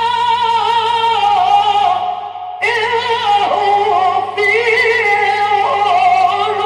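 A male reciter chanting the Quran in the melodic mujawwad style, with long, ornamented held lines. His voice breaks off for a breath about two seconds in and resumes at a higher pitch. A steady low hum from the old recording lies underneath.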